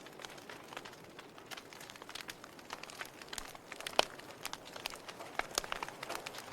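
Wood logs burning in a fireplace, crackling with irregular sharp pops and snaps over a soft hiss; one louder pop about four seconds in.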